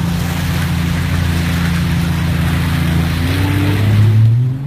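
Jeep Cherokee XJ engine running steadily under way, over wind and tyre noise; it revs up for about a second in the last part, then eases off near the end.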